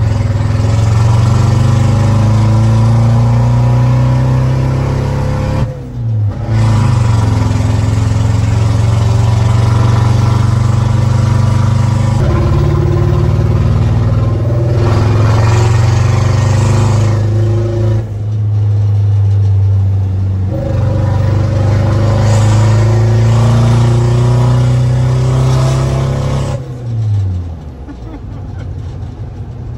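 Modified turbo diesel engine of an Isuzu D-Max pickup running hard under load, heard from inside the cabin, with short drops in the sound about 6 and 18 seconds in. Near the end it eases off and its pitch falls away.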